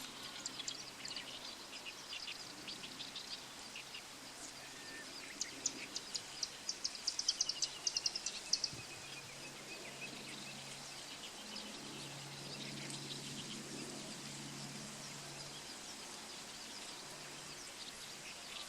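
Black-browed reed warbler singing: bursts of rapid, high, chattering notes, busiest and loudest around the middle, with a short falling run of notes. A faint low steady hum lies underneath.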